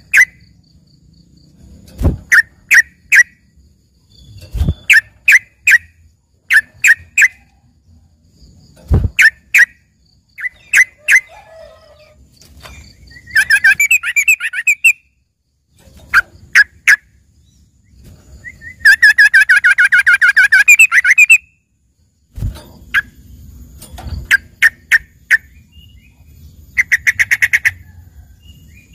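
Yellow-vented bulbul (trucukan) singing a filled-in song said to resemble a greater green leafbird's: short sharp chirps in twos and threes, broken by longer rapid trilling runs about 13 and 19 seconds in and near the end. A few low thumps sound between the phrases.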